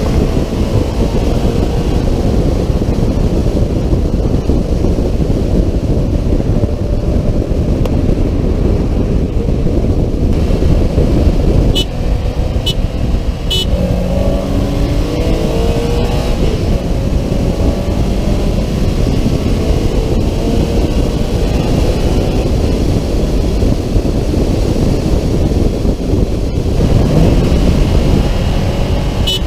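Subaru BRZ / Toyota GT86 flat-four engines running hard alongside each other under heavy wind and road rumble on the car-mounted microphone. About halfway through, three short high beeps about a second apart, then the engine note climbs in steps as the cars accelerate through the gears, and again near the end.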